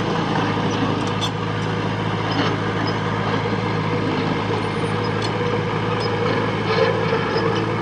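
Heavy-equipment diesel engine running steadily under work, with a few faint clinks.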